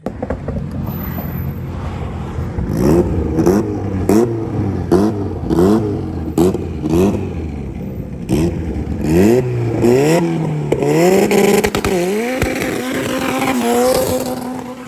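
Car engine revved in short, quick blips, about one every 0.7 s, each rising in pitch with a sharp crack. Near the end come longer, rising revs.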